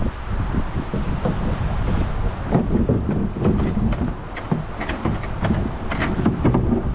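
Wind buffeting the microphone over rushing river water, with a few short splashes in the middle of the stretch.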